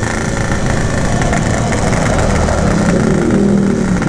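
Yamaha RX-King's 135cc two-stroke single-cylinder engine running on light throttle while riding, rising a little in pitch near the end. The bike is weak and close to stalling, running "like a snail", which the rider puts down to a broken reed valve petal.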